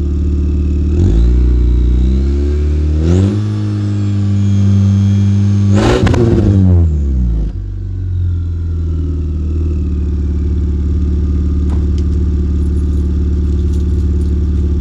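First-generation Acura RDX's 2.3-litre turbocharged four-cylinder, through a straight-piped exhaust with a glasspack, revved up in steps to its highest about six seconds in, then dropping back to a steady idle. A high turbo whistle rises with the revs and slowly falls away after the engine comes off throttle.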